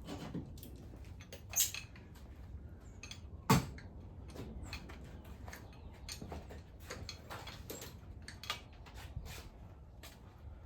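Scattered metallic clinks and clicks of hand tools and bolts being handled during an engine teardown, with two louder knocks about one and a half and three and a half seconds in.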